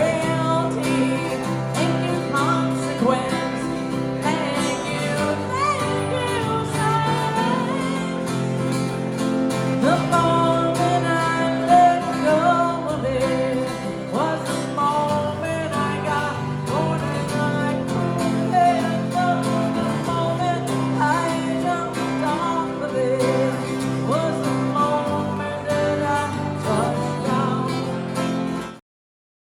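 Live guitar music from a duo, a passage with no sung words: a repeating chord pattern underneath and a melodic lead line above. The sound cuts off abruptly near the end.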